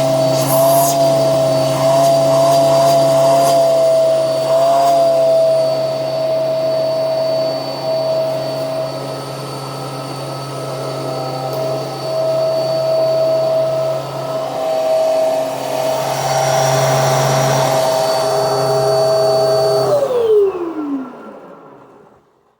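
Hoover Nano upright vacuum, fitted with a Eureka Airspeed One motor, running with a steady whine. About 20 seconds in it is switched off and the motor winds down, its pitch falling until it goes quiet. The owner says the motor has a lot of dust in it and does not sound very healthy.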